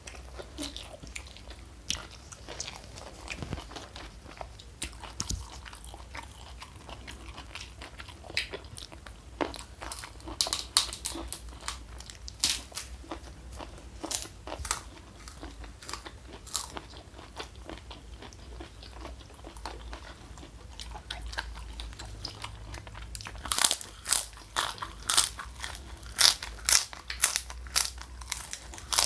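Close-miked eating: wet chewing and scattered bites, then near the end a quick run of loud crunches, about two a second, from biting into crunchy food.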